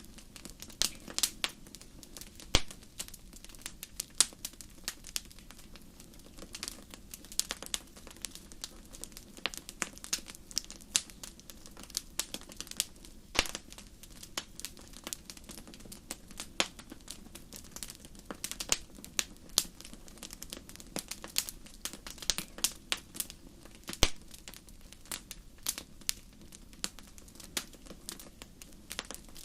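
Wood fire crackling: irregular sharp pops and snaps, several a second with a few louder ones, over a steady low rumble.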